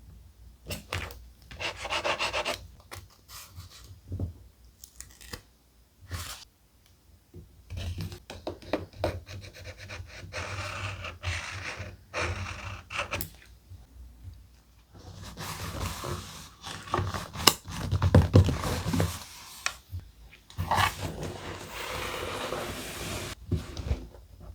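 Thick paper being handled, rubbed and rustled in irregular bursts, with occasional sharp taps and crinkles and short pauses between.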